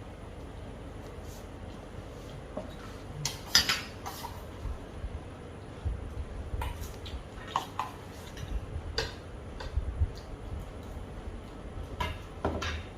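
A spoon clinks and scrapes against a bowl of ghugni and puffed rice while someone eats: a handful of separate sharp clinks spread over several seconds, the loudest a few seconds in.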